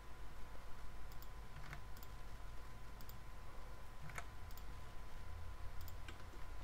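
Scattered single clicks of a computer mouse and keyboard, roughly one a second, over a steady low hum.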